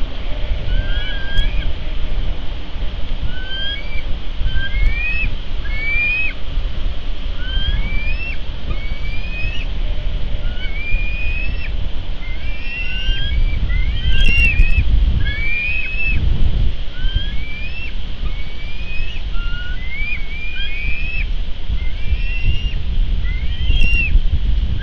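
Bird chirps, short notes that rise and fall, a couple each second, over a steady low rumble of wind on the microphone.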